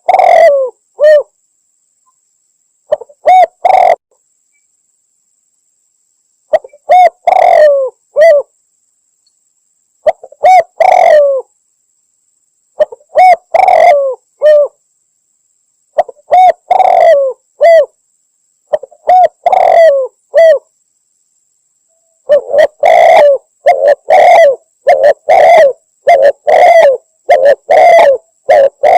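Spotted dove cooing, a tekukur lure call said to be a female calling a male. Short cooing phrases repeat about every three seconds with clean silence between them. After about twenty seconds they come back to back, faster.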